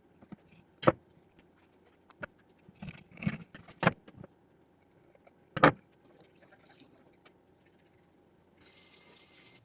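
A few scattered short knocks and clicks, like objects being handled and set down, with near silence between them; the sharpest come about a second in and a little past halfway, and a faint hiss starts near the end.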